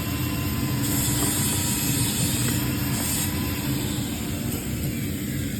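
Steady hiss of compressed gas after the cylinder valves are opened, with brighter spells of higher hiss in the first half. Under it runs the low, even drone of a workshop extraction fan.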